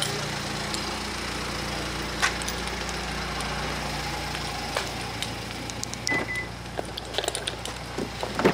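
BMW SUV engine idling with a steady low hum, with a few sharp clicks and a short high beep about six seconds in.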